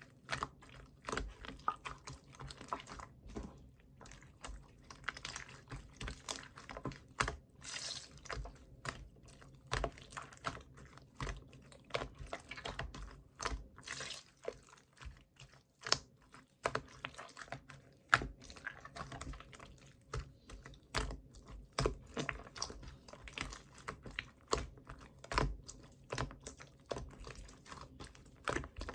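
Clear slime being pressed and stretched by hand, making a dense, irregular run of small sticky clicks and pops.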